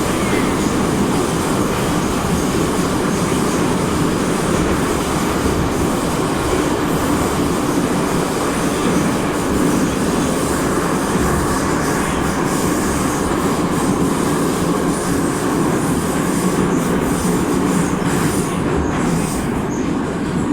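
81-714.5M metro car running along the line, heard from inside the passenger car: a steady, loud rumble and hiss of wheels on rails and running gear.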